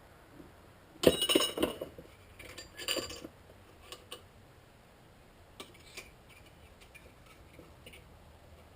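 Metal objects clinking and clattering as they are handled: a quick burst of clinks about a second in, a shorter burst near three seconds, then a few light ticks.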